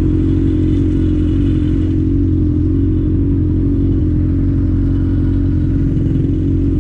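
Honda Hornet inline-four motorcycle engine running steadily at an even, unchanging pitch.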